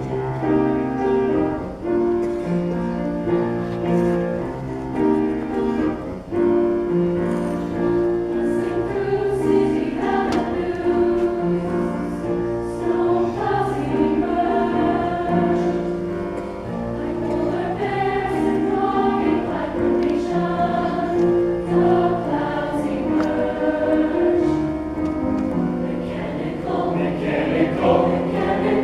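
Choir singing a slow choral piece in held chords that change every second or two.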